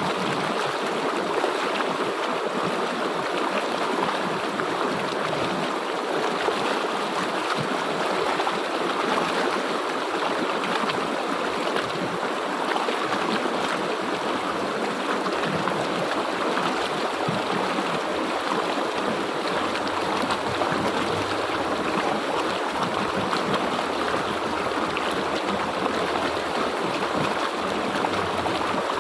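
River water flowing steadily, an even, unbroken sound of moving water.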